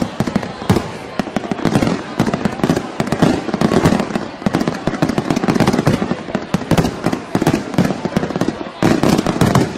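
Fireworks display: a dense, rapid run of bangs and crackling reports that starts suddenly and keeps going almost without a break, loudest about four seconds in and again near the end.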